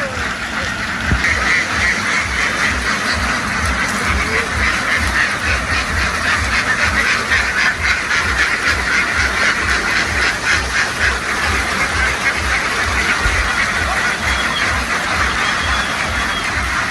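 A large flock of domestic ducks quacking all at once in a dense, continuous clamour. Underneath runs a low, even thumping of about four beats a second.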